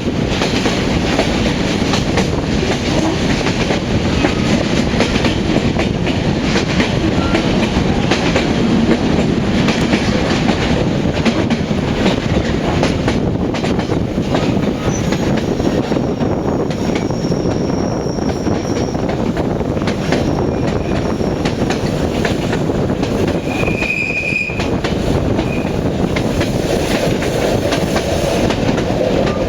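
Passenger train running steadily, with the continuous rumble and clatter of its wheels on the rails. A short, high wheel squeal comes late on.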